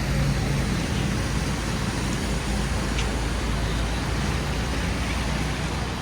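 Steady city street traffic noise, a low rumble of vehicles on the road, with a faint click about three seconds in.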